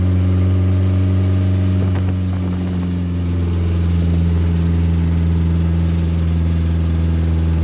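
Nissan CA18DET turbocharged four-cylinder engine running steadily at idle with a rattle inside it, the sign of the two melted pistons (3 and 4) later found under the cylinder head.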